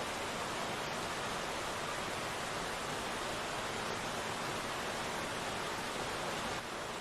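Steady rain falling, a dense, even hiss with no single drops, thunder or other sounds standing out; it eases slightly just before the end.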